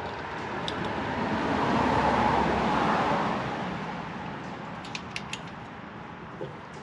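A passing road vehicle: a rush of tyre and engine noise swells over a couple of seconds, then fades away. A few faint clicks follow near the end.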